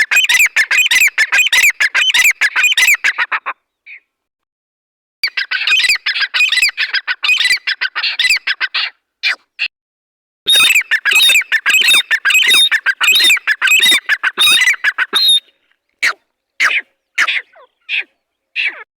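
Teetar (grey francolin) calling: loud, rapid runs of harsh repeated notes lasting several seconds each, broken by abrupt silent gaps, then shorter single calls near the end.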